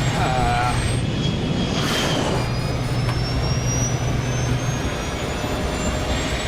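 Airbus A320 jet engines running hard during the landing rollout, with the one working thrust reverser deployed: a loud, steady rush with a thin whine slowly rising in pitch. A low hum underneath drops out near the end.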